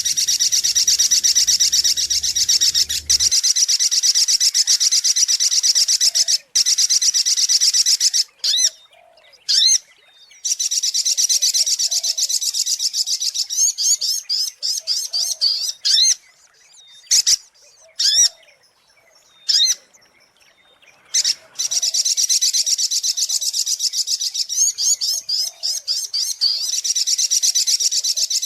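Sogok ontong (little spiderhunter) singing: long runs of very rapid, high trilling, each lasting several seconds, broken in the middle by a spell of separate sharp calls before the trill starts up again. It is a recorded lure call used to attract the bird.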